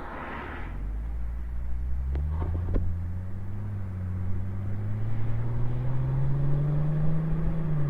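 Exhaust of a 2004 Mercedes-Benz C320's 3.2-litre V6, heard from outside near the tailpipe as the car pulls away and accelerates. The engine note climbs steadily, then dips near the end as at a gear change, with a few light clicks about two seconds in.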